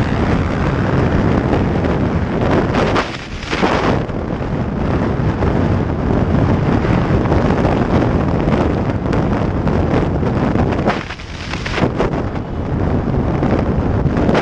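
Motorcycle engines running hard, heavily buffeted by wind noise on the microphone, with two brief dips in level, about three seconds in and again around eleven seconds.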